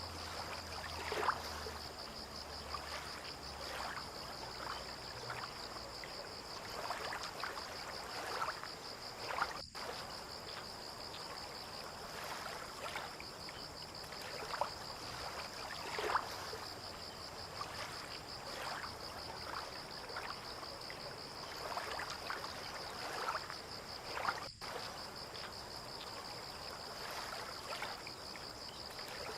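Water lapping and splashing gently and irregularly at the water's edge, over a steady high chirring of insects. A low hum fades out in the first few seconds.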